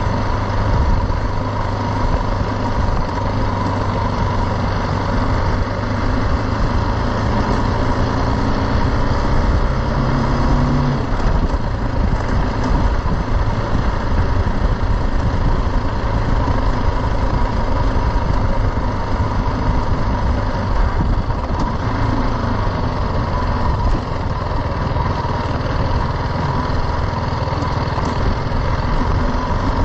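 BMW G310 GS single-cylinder engine running steadily as the motorcycle rides along a dirt track, with road noise underneath. About eleven seconds in, the engine pitch climbs for a few seconds and then drops sharply.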